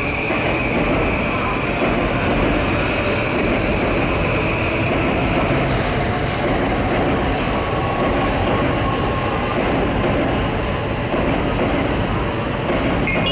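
Electric train running past on the rails with a steady, loud rumble of wheels, with high squealing tones. A thin high whine rises in pitch over a few seconds.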